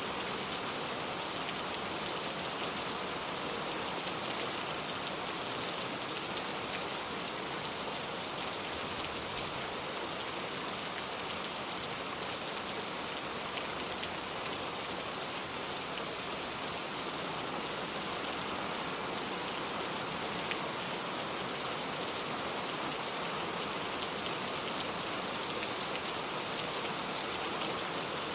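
Heavy pouring rain: a steady, dense hiss of drops with no let-up.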